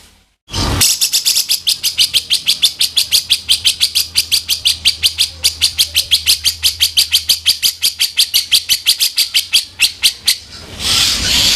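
Grey-cheeked bulbul (cucak jenggot) giving a long, fast, harsh rattle of short notes repeated about eight times a second, then breaking into a denser burst of calling near the end.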